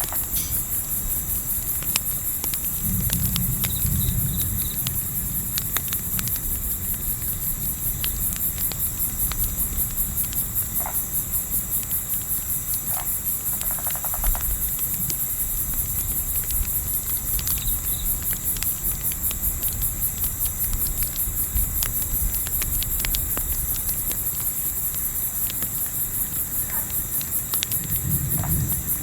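Crickets chirping in a steady, high, pulsing chorus, with scattered crackles from a campfire and a low wind rumble that swells a few seconds in and again near the end.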